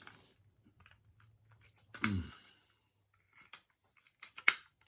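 Small clicks and scraping of a guitar pedal's input jacks being pushed and worked into the pedal's enclosure, with a short grunt about two seconds in and a sharp click near the end as a part snaps into place.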